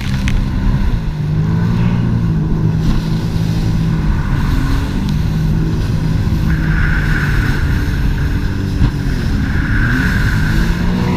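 Jet ski engine running under way, its pitch wavering with the throttle, dipping briefly and rising again near the end. A higher whine joins about halfway through.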